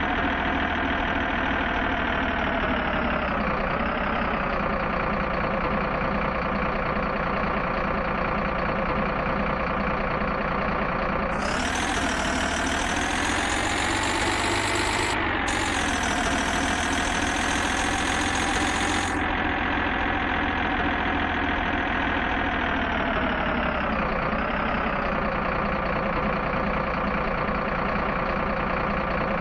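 A truck engine runs steadily for the sound of a miniature remote-control truck, with a couple of slight dips in pitch. It sounds brighter and clearer through a middle stretch.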